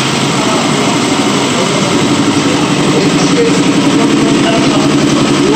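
Hyundai EF Sonata four-cylinder gasoline engine, mounted bare on a training stand, running steadily at idle.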